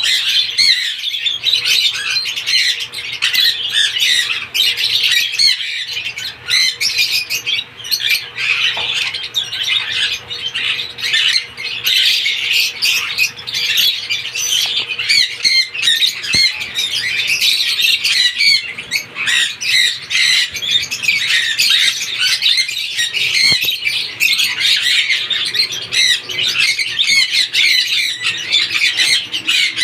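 Lovebirds chattering and squawking without pause, a dense stream of short, shrill, overlapping calls.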